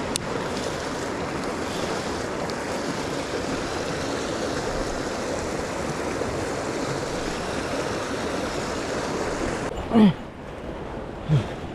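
Steady rush of a mountain stream's flowing water. Near the end the water noise drops away abruptly, and two short, low sounds falling in pitch follow about a second apart.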